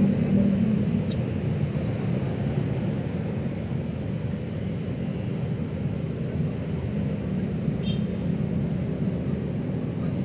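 Steady low rumble of city road traffic, with faint brief high squeaks about two seconds in and again near eight seconds.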